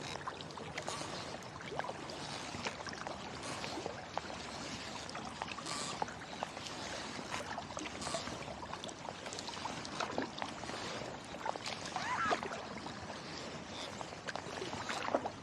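Kayak paddle strokes in the water: a splash about every two seconds, with water dripping and trickling off the blades between strokes.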